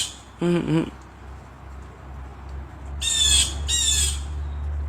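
Bird squawking: two harsh, high calls in quick succession about three seconds in. About half a second in there is also a brief low two-part vocal sound.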